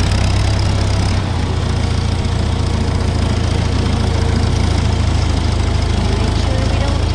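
80 hp International farm tractor engine running steadily, its low hum shifting slightly about a second in.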